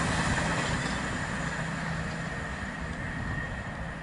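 A passing train running away along the line, its rumble fading steadily as it recedes, with a faint steady high ring from the rails.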